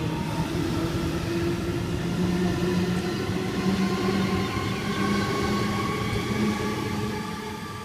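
Waratah (A-set) electric train pulling out of the station, its traction motors whining in several tones that rise slowly in pitch over a steady rumble of wheels. It fades away near the end as the train draws off.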